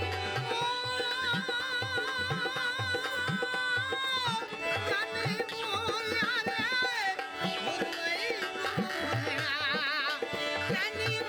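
Rajasthani Manganiyar folk music played live: a long sung melody held on wavering, ornamented notes over a hand drum keeping a steady beat, its bass strokes bending up in pitch.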